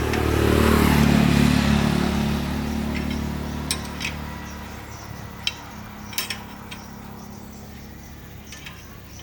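An engine starts up and runs hard for a couple of seconds, then settles to a steadier, quieter run, with a few sharp metallic clicks.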